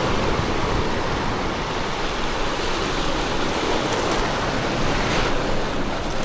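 Steady rush of sea surf, mixed with wind on the microphone.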